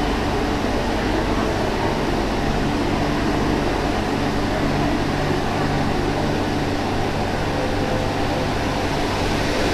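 Steady interior noise of an MTR Tsuen Wan line Q-train carriage: an even rumble with a low hum underneath, holding level without rising or falling in pitch.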